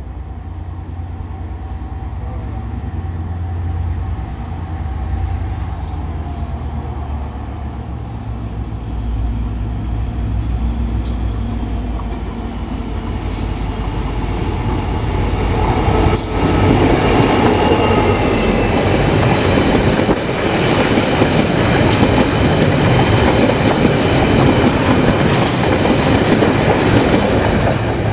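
Irish Rail 071 Class diesel locomotive, powered by a General Motors EMD two-stroke V12, approaching with a spoil train: a low engine rumble that grows louder, with a high whine that slowly falls in pitch. About halfway through the train passes close and is at its loudest, with wheels squealing and clicking over the rails as the wagons go by.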